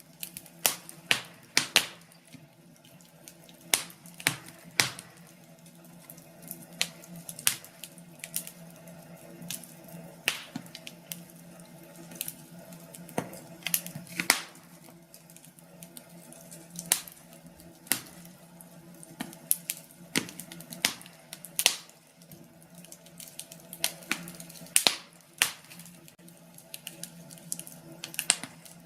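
Wood fire burning in a fireplace, crackling with irregular sharp pops, a few each second and some much louder than others, over a faint steady low hum.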